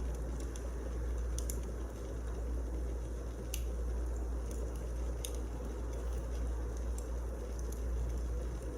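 Wood fire burning in a fireplace: a steady low rush of flame with sharp crackles and pops scattered irregularly through it.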